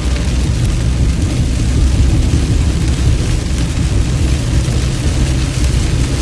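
Heavy rain falling, a steady hiss over a continuous low rumble.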